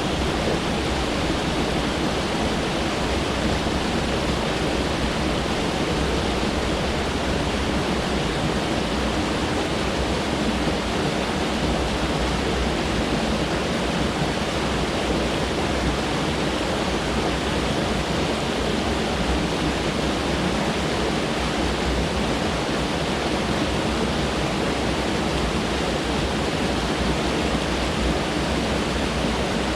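Mountain stream rushing over rocks: a steady, loud, unbroken water noise.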